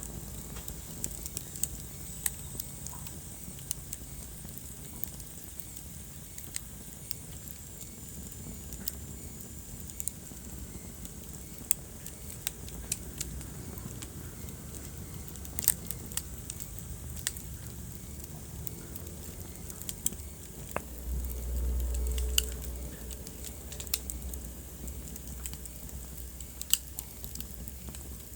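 Wood fire crackling: scattered sharp pops and snaps over a steady low rumble of burning. About three quarters of the way through, the low rumble swells louder for a couple of seconds.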